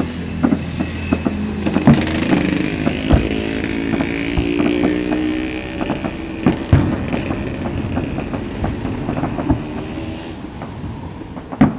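Fireworks display: firework shells bursting in a repeated series of sharp bangs over a steady rumble, with a droning hum from about three to six seconds in.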